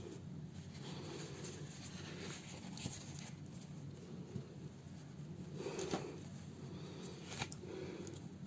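Faint hand-sewing sounds: rustling as thread is drawn through a house slipper's fabric and the slipper is handled, with a few soft clicks, about three seconds, six seconds and seven and a half seconds in, over a low steady hum.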